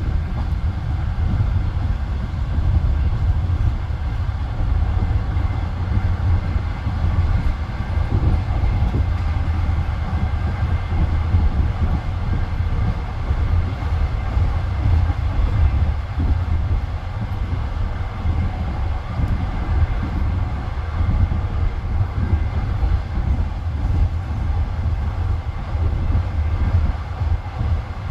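Passenger train carriage running at speed between stations: a steady, heavy low rumble of the wheels on the rails.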